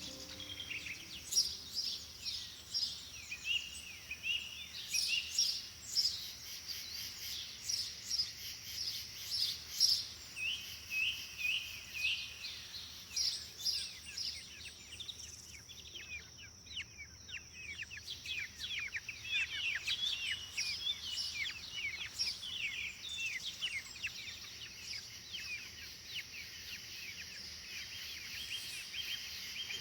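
Small birds chirping and calling: many short, quick calls, with a dense run of rapid falling notes about halfway through, over a steady high-pitched background hum.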